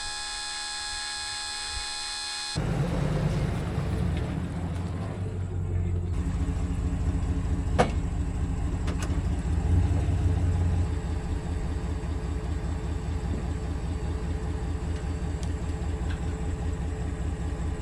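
An electric hydraulic pump motor whining steadily as it raises the front of the implement into transport mode, stopping abruptly about two and a half seconds in. After that a vehicle engine runs with a steady low rumble.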